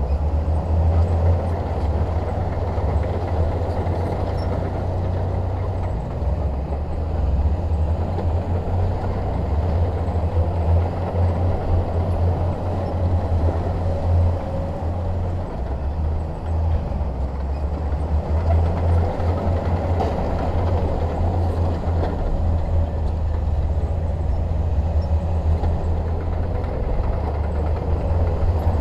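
Bulldozer's diesel engine running with a steady low drone while it works pushing soil and stone.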